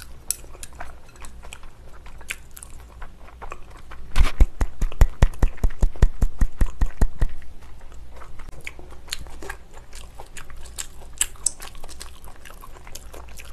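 Close-miked mouth sounds of someone chewing a mouthful of salmon sashimi: wet clicks and smacks, with a run of quick, louder smacks from about four seconds in lasting about three seconds.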